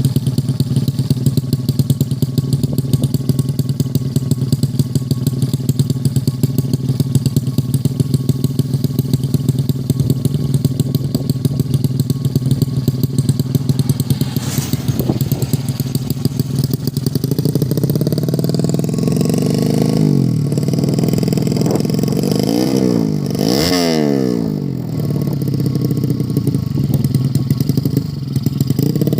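Two-stroke-free? No: a 115cc underbone drag bike engine idling steadily, then revved in repeated quick blips from about halfway, its pitch rising and falling, as it is tuned.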